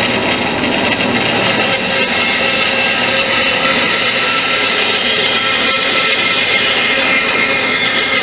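Power saw running steadily while cutting through wood.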